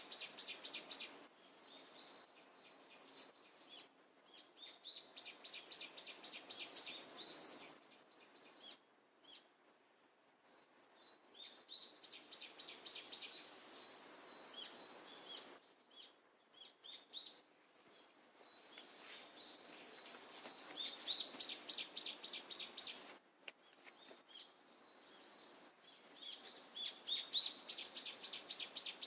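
A songbird singing the same fast trilled phrase of high notes over and over, each phrase lasting about two seconds and coming back every six seconds or so, with softer chirps between the phrases.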